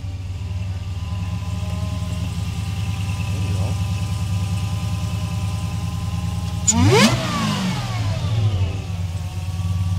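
Supercharged Mopar HEMI V8 idling steadily after a fresh start, then blipped once about seven seconds in, the revs shooting up and falling straight back to idle.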